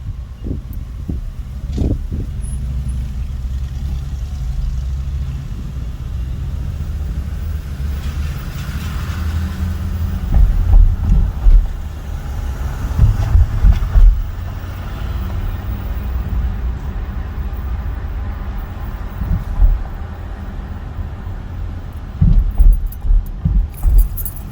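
Car driving: a steady low road rumble, broken by loud low thuds about ten seconds in, again around thirteen seconds, and in a quick run near the end.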